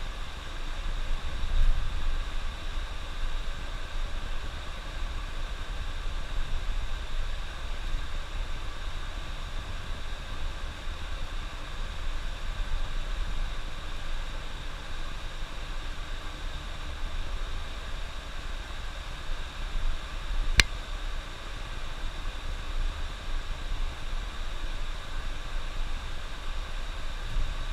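Steady rumble of a bus on the road, with a single sharp click about twenty seconds in.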